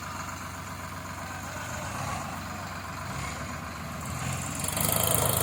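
Tractor diesel engine running steadily, growing louder and harsher about four and a half seconds in as it takes on more throttle or load.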